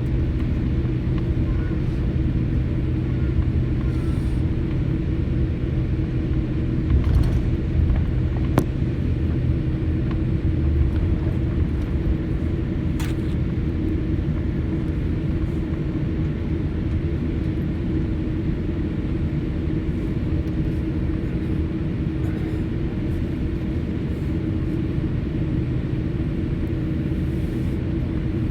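Steady airliner cabin hum heard from inside the cabin on the ground before takeoff: a low rumble with a constant pitched drone. The rumble swells briefly a few seconds in, with one sharp click.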